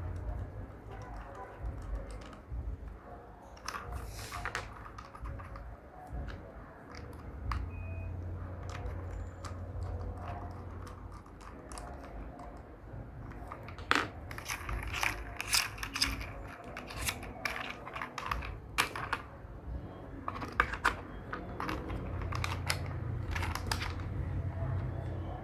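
Small plastic toy pieces clicking and clattering as they are handled and snapped together, in sparse clicks at first and a busier run of clatter past the middle. A steady low hum runs underneath.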